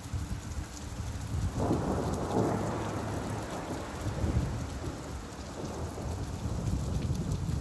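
Steady rain with a deep low rumble underneath, swelling louder about a second and a half in.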